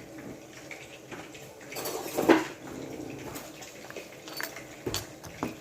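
Kitchen utensils clinking and knocking, a spoon against dishes and containers, with one louder clatter a little past two seconds in.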